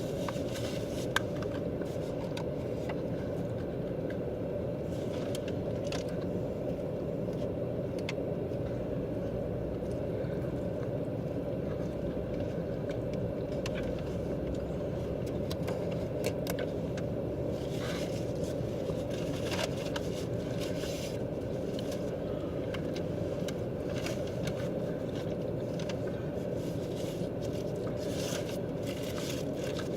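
Steady low rumble of a car cabin, with scattered faint clicks and scrapes over it and one sharper click about a second in.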